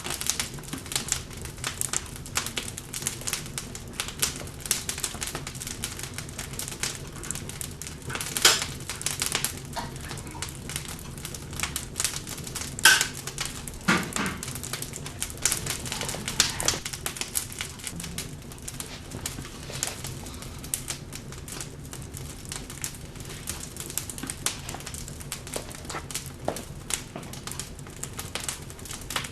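Wood fire in a fireplace crackling with dense, irregular snaps, and a few louder pops about a third and halfway through.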